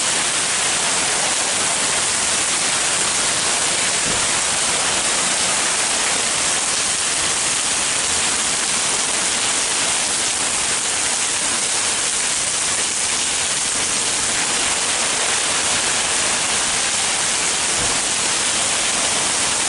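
Heavy rain pouring down in a storm: a loud, steady hiss with no breaks.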